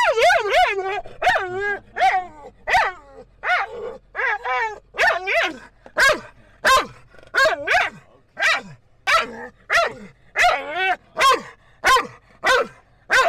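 Dog giving short, wavering whining yelps in an excited greeting, one about every two-thirds of a second.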